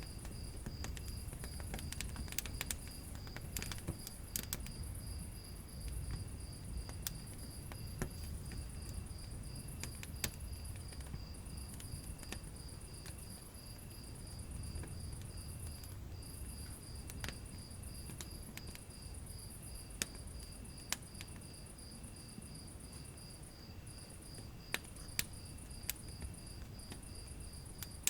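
Wood fire burning in a fireplace: a low steady rumble of flames with scattered sharp crackles and pops. Behind it, a steady high chirping pulses rapidly and without a break.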